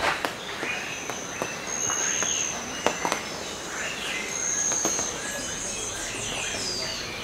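Birds calling: a thin, high whistled note held about half a second, repeating every two to three seconds, among many short falling chirps, with scattered sharp clicks.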